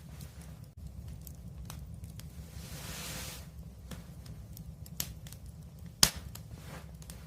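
Wood fire crackling, with scattered sharp pops over a low steady rumble; a brief hiss comes about three seconds in, and one loud pop comes about six seconds in.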